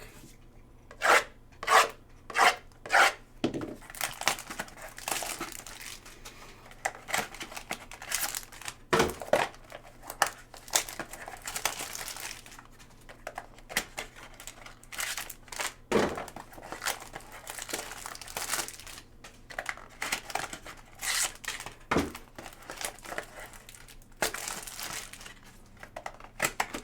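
Crinkling and tearing of trading card pack wrappers as the packs are opened, with irregular crackles and rustles throughout.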